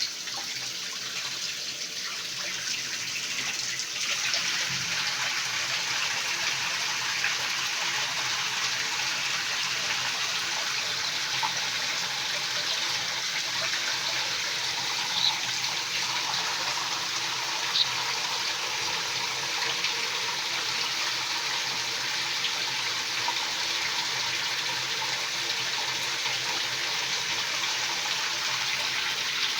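Steady rush of running water, like a tap left on, stepping up in level about four seconds in. A couple of brief faint clicks sound partway through.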